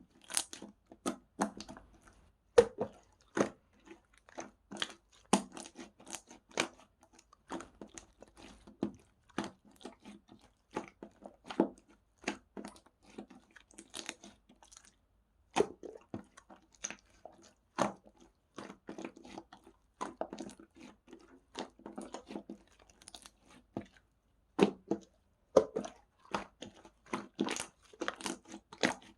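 Slime being squished and pressed by hand, giving irregular sticky clicks and pops.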